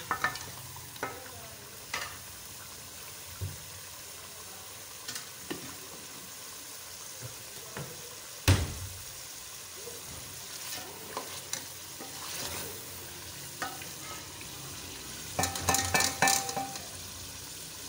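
Chicken frying in tomato masala in a metal pot, with a steady sizzle; the masala has cooked down and the oil is separating. A wooden spoon knocks and scrapes against the pot now and then, with one sharp knock about halfway through and a burst of stirring near the end.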